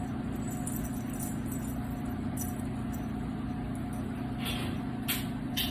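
Steady low background machine hum, with a few short rustling sounds near the end.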